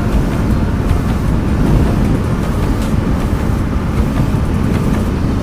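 Yamaha MT-15's single-cylinder engine running while riding, with steady wind rumble on the action camera's microphone.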